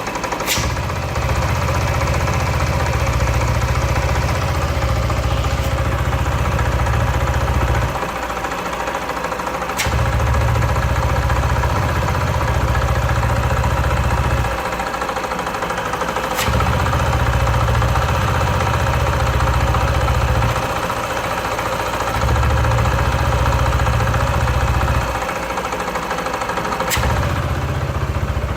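Yamaha Force 155 scooter's single-cylinder engine running near idle with an abnormal noise that the owner puts down to the crankshaft. Its low rumble drops away for a second or two four times, each time ending with a sharp click.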